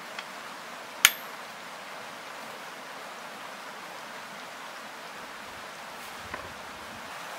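Steady rushing outdoor background noise, with one sharp click about a second in.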